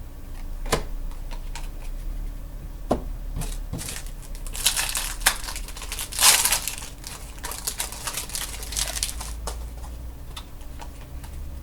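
Trading cards being handled: crinkling and rustling, loudest between about four and a half and seven seconds in, with a few sharp clicks.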